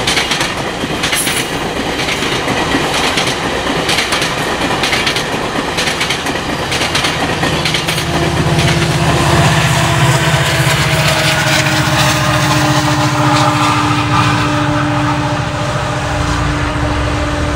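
GO Transit commuter train of bilevel coaches passing close by at a level crossing, its wheels clicking over the rail joints. From about halfway through, a steady low drone with a slowly falling hum joins in, then eases off near the end as the train moves away.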